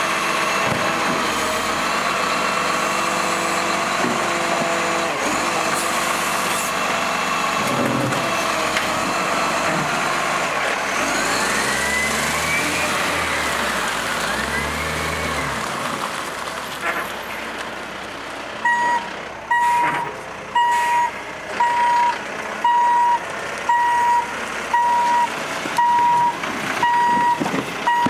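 Garbage truck running, its engine note rising and falling through the middle. About two-thirds in, its reversing alarm starts, a single pure beep about once a second.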